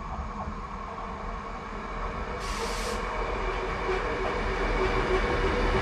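Diesel railcar approaching a station platform, its engine and running noise growing steadily louder. A short burst of hiss comes about halfway through.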